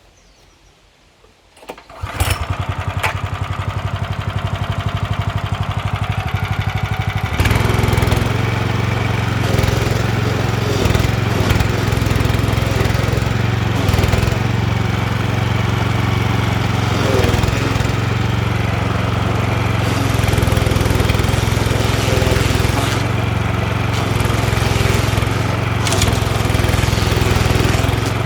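DR stump grinder's gasoline engine pull-started about two seconds in, running at low speed, then throttled up about seven seconds in and running steadily at working speed.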